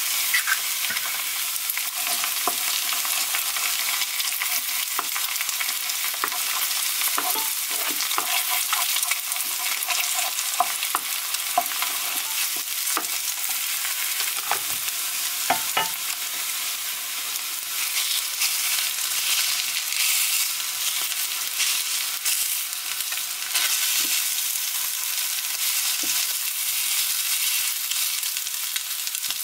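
Egg, diced carrot and garlic frying in oil in a frying pan with a steady sizzle. A wooden spoon stirs and scrapes against the pan, giving scattered short clicks and taps.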